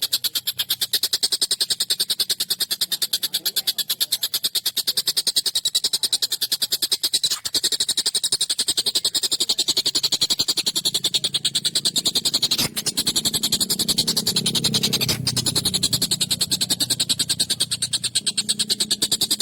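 Long-tailed shrike (tengkek buto) giving a harsh, rapid chattering call, many short notes a second, kept up without a break.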